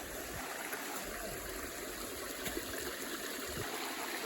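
A small stream flowing steadily, a continuous even rush of running water.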